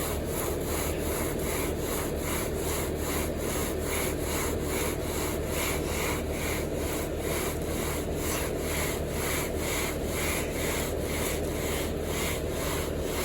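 A wooden screed board scraped back and forth across wet concrete in quick, even strokes, about two to three a second, levelling the fresh pour. A steady engine hum runs underneath.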